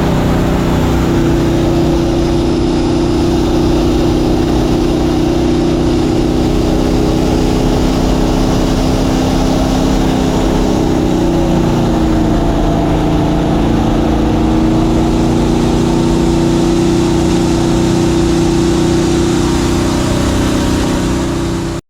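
Mini jet boat's engine running steadily. It eases off in pitch around the middle and picks back up, then cuts off suddenly near the end.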